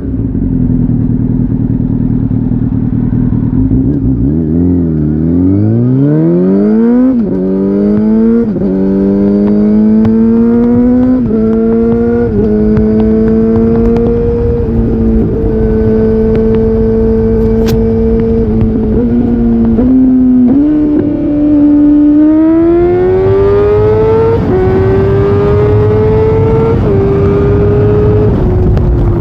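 Yamaha YZF-R6 (2004) inline-four through an Akrapovič exhaust under way. The revs dip and climb, then it accelerates through a quick run of upshifts, each a rising note that drops back. It holds a steady cruise, eases off, and pulls up through two more shifts near the end.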